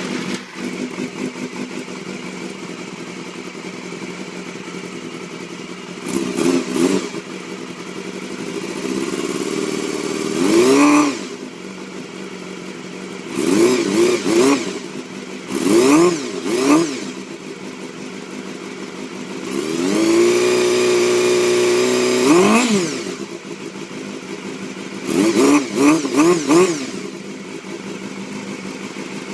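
Honda Hornet 250 inline-four idling through a cheap aftermarket titanium muffler, revved again and again up to about 8,000 rpm. It goes in quick throttle blips and a couple of longer climbs, including one rev held for a few seconds, and drops back to idle each time.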